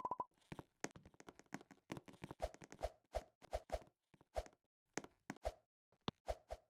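A faint, irregular series of short clicks and taps, some carrying a brief low tone, several a second.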